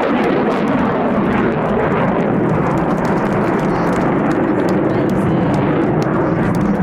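Eurofighter Typhoon's twin Eurojet EJ200 turbofans: a loud, steady jet roar as the fighter departs at the end of its display.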